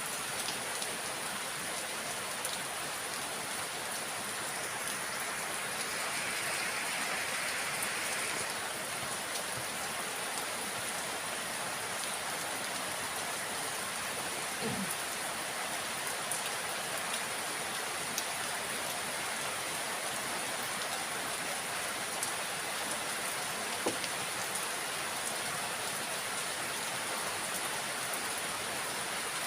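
Steady rain falling, with scattered single drops pattering close by.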